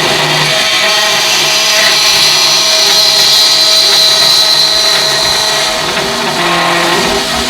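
Power grinder running against metal, a loud, steady, high-pitched grinding that eases a little near the end.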